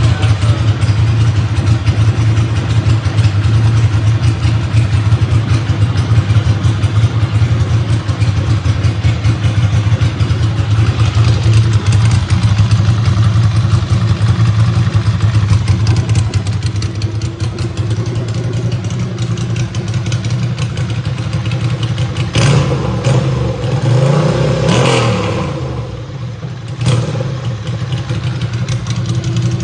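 2002 Ducati Monster's 90-degree L-twin idling steadily through a Voodoo slip-on exhaust. Near the end it is revved once, the note rising and falling, with a few sharp knocks around it.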